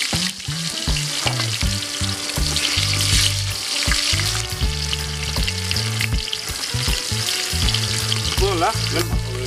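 Onion pieces sizzling in hot oil in an aluminium pot over a wood fire as they are dropped in by hand. Low bass notes of background music run underneath.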